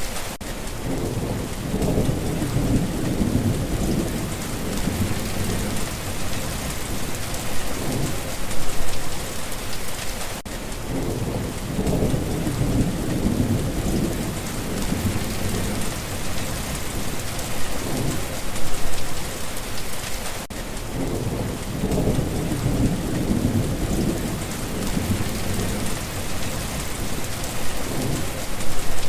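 Steady rain with low rolling thunder rumbles that swell and fade, recurring about every ten seconds.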